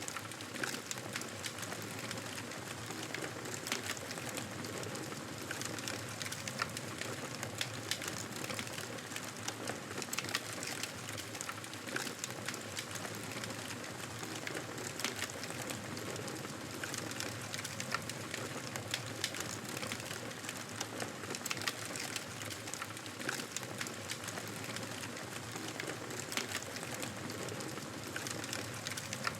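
Campfire crackling: a steady hiss of burning wood with frequent sharp pops and snaps at irregular intervals.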